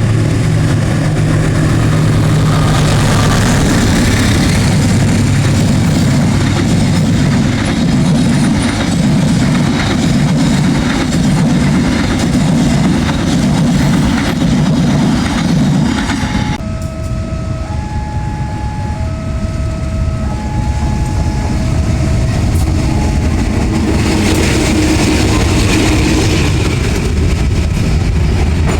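Train hauled by double diesel locomotives passing close, its wheels clacking evenly over rail joints about every half second over a steady low rumble. Just past halfway the sound changes abruptly and a run of short steady tones at different pitches sounds over the ongoing rumble.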